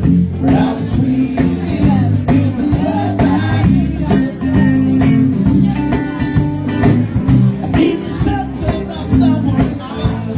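Live band playing a blues-rock jam: guitar and bass over a steady drum beat.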